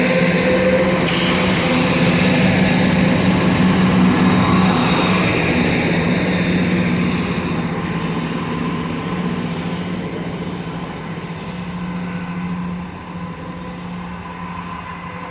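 Class 170 Turbostar diesel multiple unit pulling away from the station, its engine running with a steady low hum. The sound fades gradually as the train draws away.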